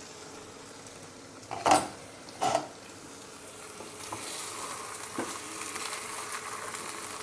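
Chicken leg pieces in onion masala sizzling in oil in a nonstick pan while a spatula turns them. There are two brief louder knocks about two seconds in, and the sizzle grows a little stronger as the stirring goes on.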